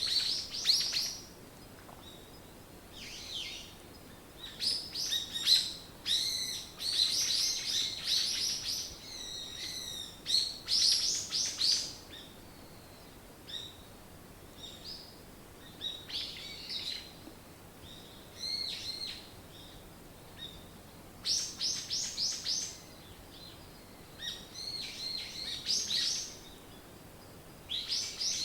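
Songbirds singing: bursts of high, quick chirps and trills come every few seconds with short pauses between phrases.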